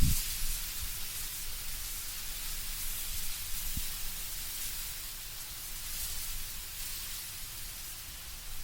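Wind blowing through autumn trees, the leaves rustling in a steady hiss that swells and eases slowly, over a low wind rumble. A brief low thump comes right at the start.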